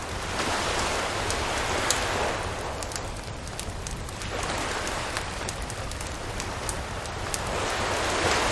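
Campfire crackling, with sharp pops scattered throughout, over waves washing onto the shore in slow swells a few seconds apart.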